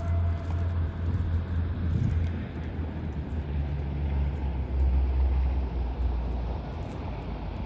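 Ferry New Kasaoka's engines running with a steady low rumble, with a noisy wash over it.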